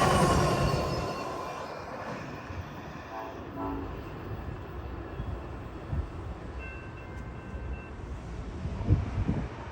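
Passing passenger train, Amtrak's California Zephyr, receding, its rumble fading over the first two seconds to a low steady noise. A short, faint horn note sounds about three seconds in.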